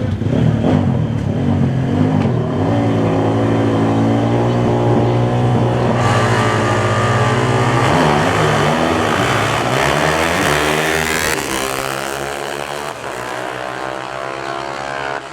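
A drag-racing car's engine at the strip: a steady rumble, then a run whose pitch sweeps up and down around the middle, settling to a quieter steady drone near the end.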